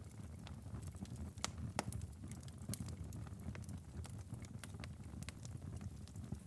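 Wood fire in a fireplace burning with a steady low rumble and irregular crackles and pops, two of them louder about a second and a half in.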